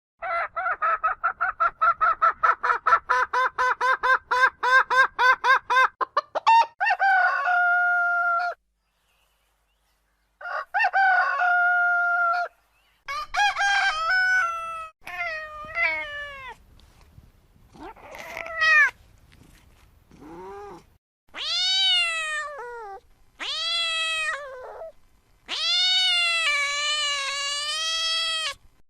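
Chickens: a rapid run of clucks, about five a second, for roughly six seconds, ending in a drawn-out call, then a series of separate longer calls and crows with short gaps between them.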